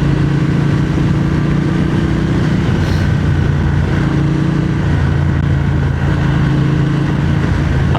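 Triumph Speed Twin 1200's parallel-twin engine running steadily under way, over a constant rush of wind and road noise.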